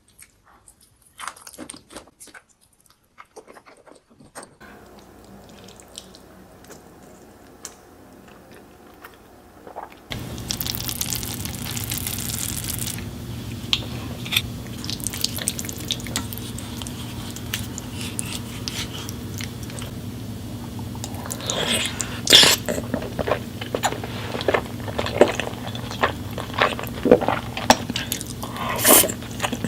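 Close-miked wet eating sounds: chewing, smacking and squelching of creamy pasta, many short wet clicks in irregular runs. From about ten seconds in a steady low hum runs underneath, and the smacks come louder and thicker near the end.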